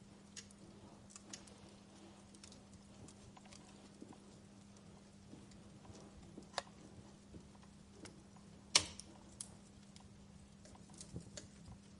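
Wood fire crackling quietly, with scattered sharp pops and snaps; the loudest pop comes near nine seconds in. A faint steady low hum runs underneath.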